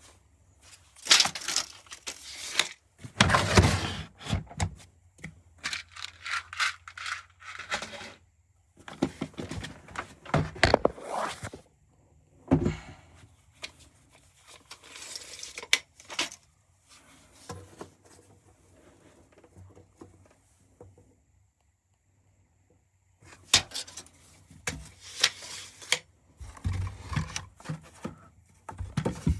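Irregular handling noise: clattering, scraping and knocks of objects being moved and set down, in several bursts with a quiet pause of a couple of seconds about two-thirds through.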